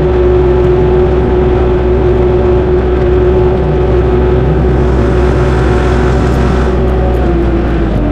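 Tractor engine running steadily under way, its pitch dropping slightly near the end.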